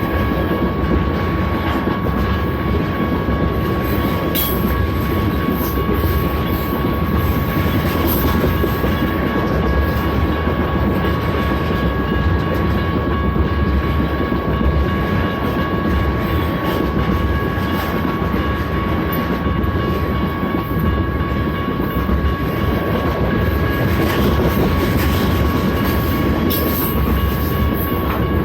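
BNSF freight train cars rolling past close by: a steady, continuous rumble of steel wheels on rail with occasional clicks, and a thin steady ringing tone held above it.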